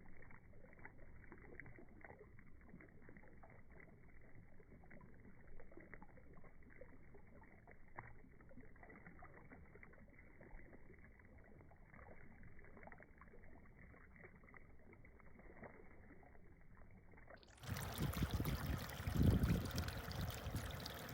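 Beehive fountain water slowed down, a faint, low, muffled burble. About three and a half seconds before the end the sound changes to louder, brighter full-speed water noise with strong low rumble.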